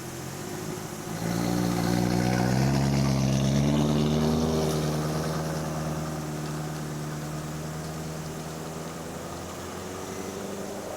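Car engine accelerating: its note rises over a few seconds, then holds steady and slowly fades.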